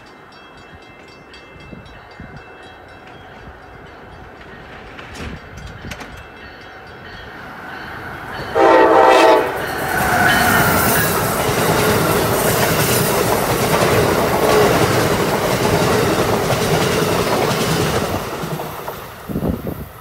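Amtrak Acela Express trainset approaching and passing through the station at speed. A rumble builds, then comes one short horn blast about eight and a half seconds in. A loud rush of wheels on rail with clickety-clack follows as the cars go by, and it falls away near the end.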